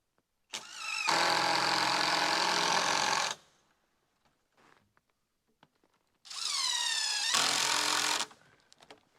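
Cordless drill-driver running screws in two bursts, the first about three seconds long and the second about two, each winding up to speed at the start.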